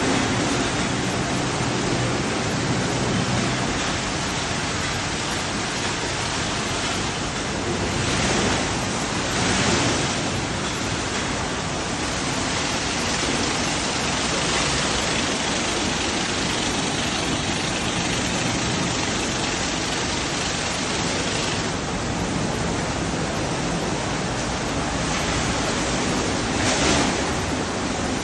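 Automatic rollover car wash machine running, its jets giving a steady rush of water spray, with a couple of louder surges partway through and again near the end.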